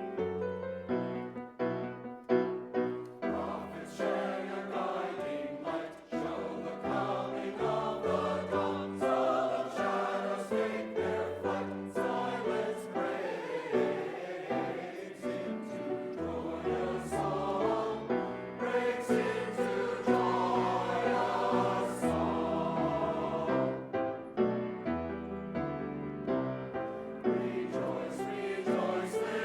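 A choir singing a Christmas piece with keyboard accompaniment.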